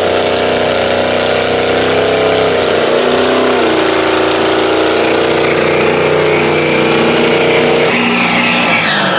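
Mud truck engine running hard at high revs; its pitch drops about three seconds in, then holds steady.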